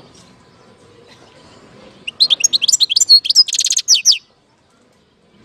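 European goldfinch singing: a short burst of rapid, high twittering notes with a buzzy trill in the middle, starting about two seconds in and stopping suddenly a couple of seconds later.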